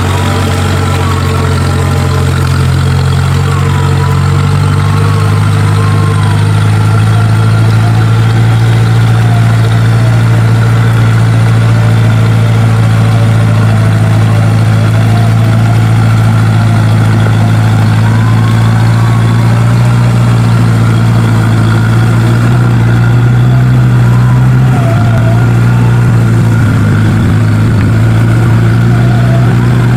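Off-road 4x4's engine running steadily as a loud low drone, its pitch shifting slightly a few seconds in and again near the end.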